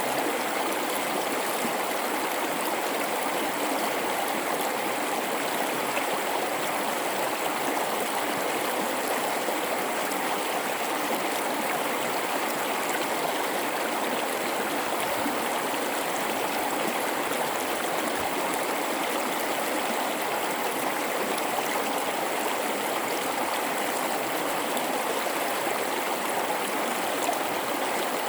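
River water flowing through a gorge: a steady, unbroken babble and rush of water.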